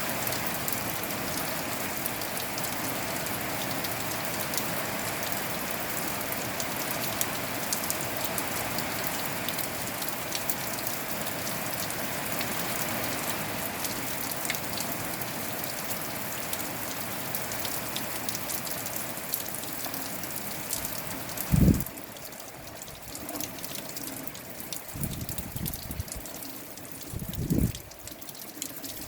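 Steady rain falling, with many individual drops ticking close by. About three-quarters through comes a loud low thump, after which the rain sounds quieter. A couple of low rumbles of wind on the microphone follow.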